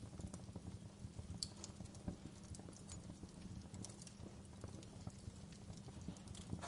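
Wood fire crackling in a fireplace: irregular pops and snaps over a low, steady rumble of burning, with a sharper snap about a second and a half in.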